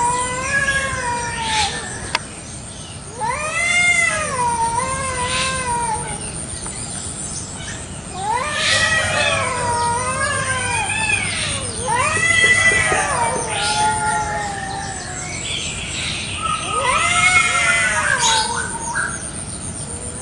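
Free-roaming village cats yowling at each other in a territorial standoff: long, wavering caterwauls that rise and fall in pitch, one after another and sometimes overlapping.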